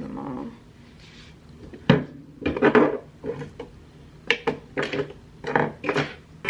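Small hard objects being picked up and set down on a wooden dresser top, a string of sharp knocks and light clatters as the dresser is cleared off.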